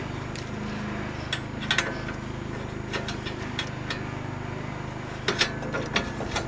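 Scattered light metallic clicks and taps of a bolt, nut and hand tools being handled while fitting a snow plow mount, with small clusters about a second and a half in and again near the end, over a steady low hum.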